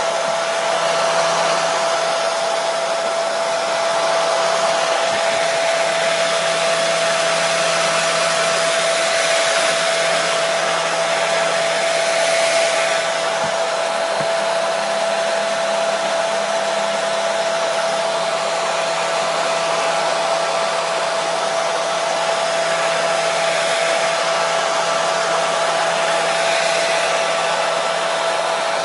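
Hair dryer running continuously, a steady blowing hiss with a constant motor whine, used as soothing white noise for a colicky baby.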